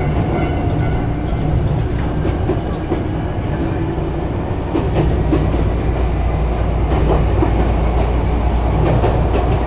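Nagano Electric Railway train running at speed, heard from inside the car: a steady low rumble of motors and wheels with scattered clicks from the rails, and wind buffeting in through the open window.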